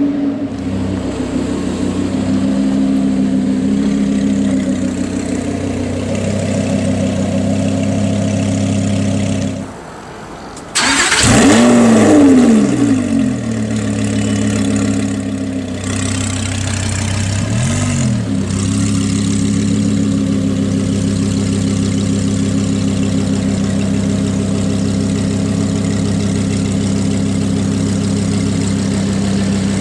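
Lamborghini Huracán's 5.2-litre V10 running through a Frequency Intelligent (Fi) aftermarket exhaust, idling steadily. About ten seconds in it drops away for about a second, then starts with a loud flare of revs that falls back to idle, followed a few seconds later by one short blip.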